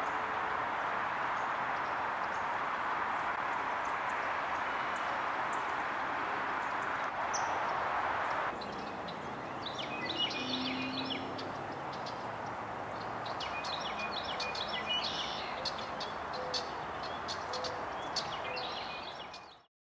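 Small birds calling and chirping in two short clusters, about ten seconds in and again about fifteen seconds in, over a steady background rush that drops abruptly a little after eight seconds in.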